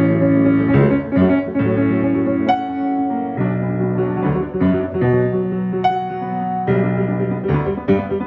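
Piano played in sustained chords, the harmony changing every second or two, with single high notes struck over the chords now and then.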